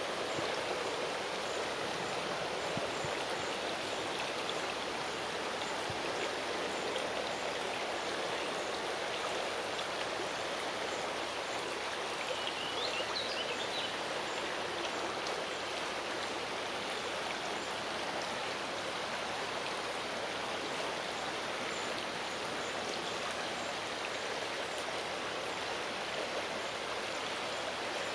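Strong wind rushing through the leaves of a large tree, a steady rustling hiss with no letup. A brief high chirp comes about halfway through.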